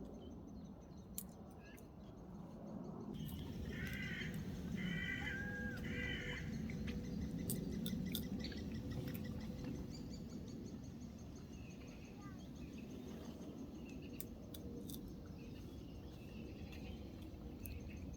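Outdoor ambience with a steady low rumble, with a bird giving three short calls about a second apart about four seconds in, and faint scattered chirps.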